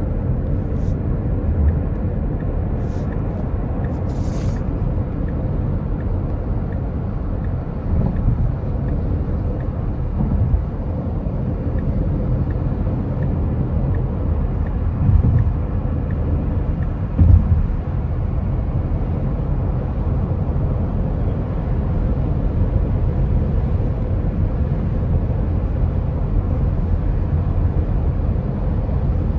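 Steady low road and tyre rumble inside the cabin of a 2025 Tesla Model X at freeway speed, with a few brief thumps and faint clicks.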